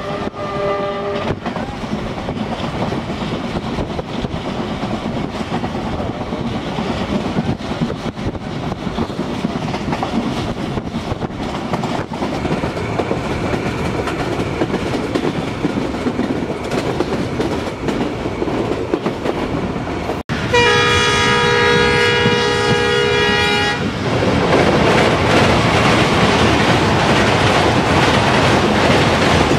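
Train running on the rails with a steady rumble and clatter. A horn fades out about a second in, and about two-thirds of the way through a locomotive's multi-tone horn sounds for about three and a half seconds. Louder clattering follows the horn.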